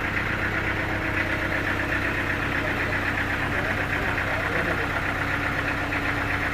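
An engine running steadily at constant speed, with a low hum and a fast, even rattle higher up.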